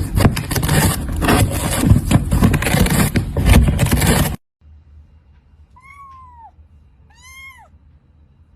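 A loud, rough rushing noise that cuts off suddenly about four seconds in, then a domestic cat meowing twice, each meow rising and then falling in pitch.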